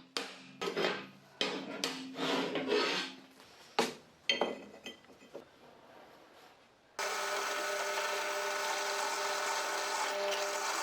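Metal parts knocking and scraping, with a short metallic ring after each hit. About seven seconds in, a power tool or machine starts suddenly and runs steadily.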